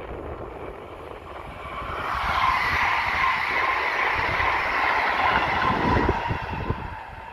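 An ED161 (PESA Dart) electric multiple unit approaching on the line: a hum with a high ringing tone swells in about two seconds in and holds, fading a little near the end. Wind gusts on the microphone underneath.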